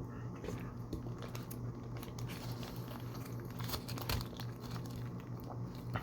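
Close-miked eating sounds: chewing with scattered short clicks and crinkling of food wrapping paper, over a steady low hum.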